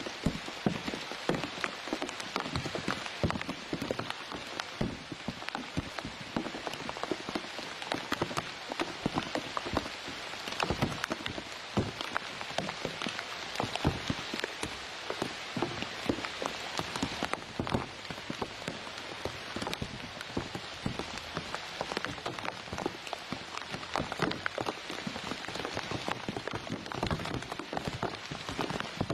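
Rain falling steadily, a dense stream of irregular drops and taps.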